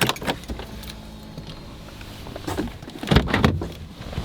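Low steady hum of a running pickup truck heard from inside, with a few sharp clicks at the start and a short run of knocks and clunks about three seconds in.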